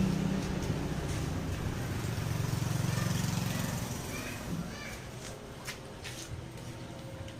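An engine running with a low, steady rumble that fades away about four seconds in, followed by a few sharp clicks.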